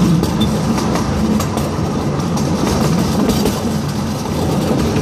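Miniature zoo train rolling along its track, heard from an open passenger car: a steady rumble of wheels on rail with irregular clicks over the rail joints.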